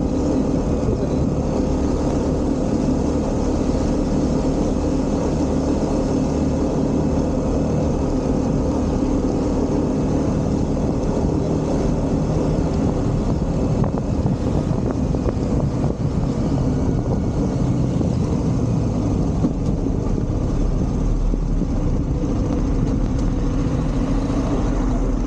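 A vehicle engine running at a steady speed, its drone holding one pitch throughout, over a constant rushing noise.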